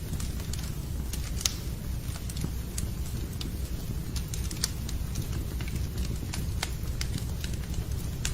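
Fire crackling in a fireplace: a steady low rumble with irregular sharp pops and snaps, several a second at times.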